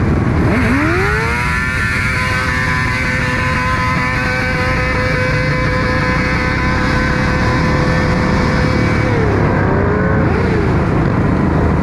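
Motorcycle engine rising in pitch about a second in, then holding a steady high note for several seconds before easing off and wavering near the end, over a constant low rumble.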